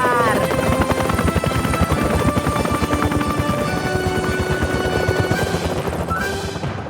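Cartoon helicopter rotor sound effect, a fast, steady chop, under background music. The chop starts to fade near the end.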